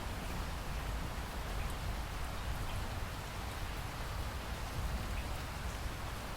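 Steady rain falling: a continuous even hiss with a few faint scattered drop ticks.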